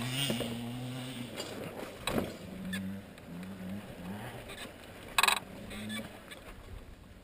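Dirt bike engine running at a low, steady idle that grows faint and uneven after about a second. A sharp knock about five seconds in is the loudest sound, with a smaller one about two seconds in.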